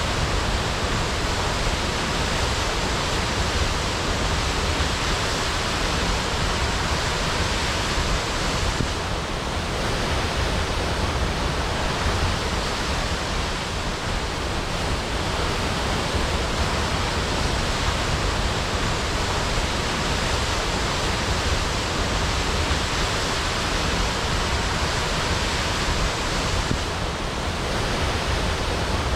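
Waterfall crashing: a steady, unbroken rush of falling water, easing slightly twice.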